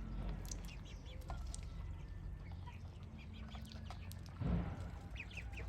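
Week-old ducklings peeping, many short high calls scattered through, over a steady low rumble, with a brief louder rustle about four and a half seconds in.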